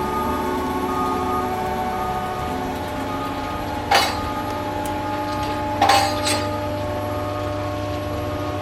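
Diesel engine of track-removal machinery running steadily, with a sharp metal clank about four seconds in and two more close together around six seconds, as rail and track parts are handled.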